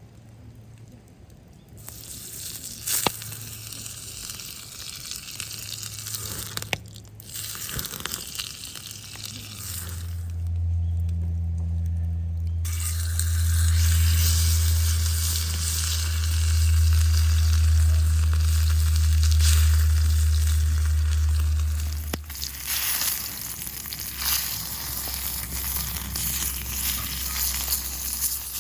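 Food sizzling and frying in a hot pan over a campfire, a steady crackling hiss. A loud low hum joins it from about a third of the way in and stops sharply about two-thirds through.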